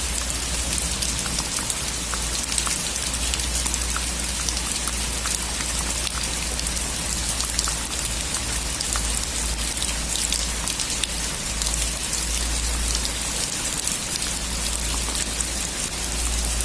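Steady rain falling on a surface, an even hiss dotted with the small ticks of individual drops.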